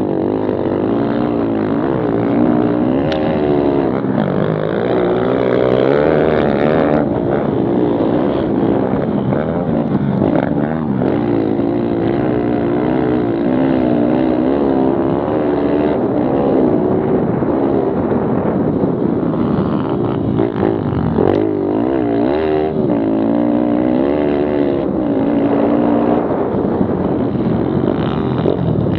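Several small single-cylinder pit bike engines, Kawasaki KLX110 among them, revving up and down through the gears as they race, their pitch rising and falling over and over and overlapping.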